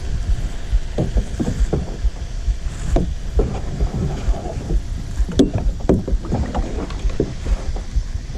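Kayak paddle strokes dipping and splashing in lake water at an irregular pace, with a few knocks against the kayak. Wind buffets the microphone underneath as a steady low rumble.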